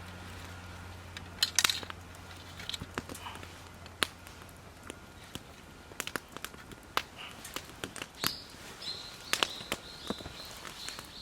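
Wood campfire crackling, with irregular sharp snaps and pops. A small bird chirps repeatedly in short high notes near the end.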